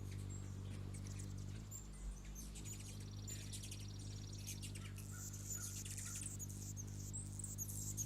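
Hummingbirds at a nectar feeder giving high, thin squeaks and chip notes, with a rapid buzzy chatter about three seconds in, over a low steady hum.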